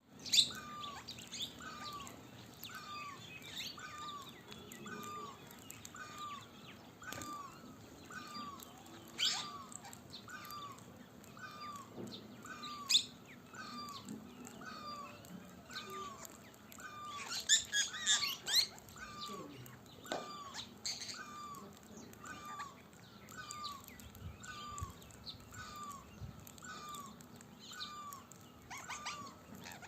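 Birds calling: one bird repeats a short, hooked call steadily, about once every three-quarters of a second, while others chirp higher around it. Louder shrill calls cut in at about 9 and 13 seconds and in a cluster near 18 seconds.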